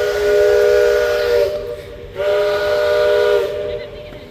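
Multi-tone steam whistle blowing two long blasts, each a steady chord, with a short gap between them.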